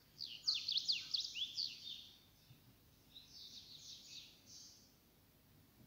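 A small songbird singing: a quick string of high chirps and downward-sweeping notes for about two seconds, then a fainter run of twittering about three seconds in.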